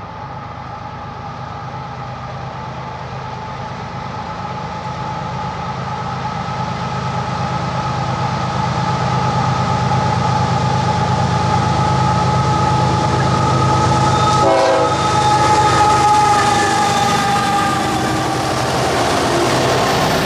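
Diesel freight locomotive sounding a long, held multi-tone air horn over its engine rumble, growing louder as the train approaches. The horn drops slightly in pitch near the end as the locomotive passes.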